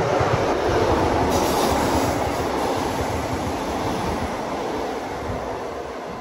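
Train running past on the line, a steady rush and rumble of wheel and rail noise that slowly fades as it draws away.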